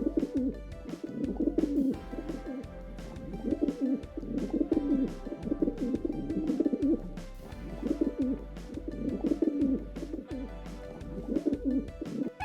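Pigeon or dove cooing, repeated low warbling phrases about every two seconds, over background music.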